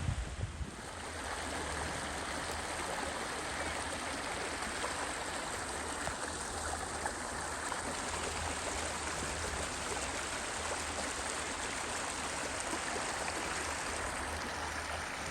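Steady rushing of running water from a stream, unbroken and even.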